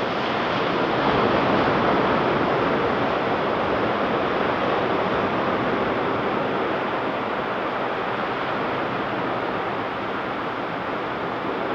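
Ocean surf washing onto a beach, a steady rushing of breaking waves that swells about a second in and then slowly eases.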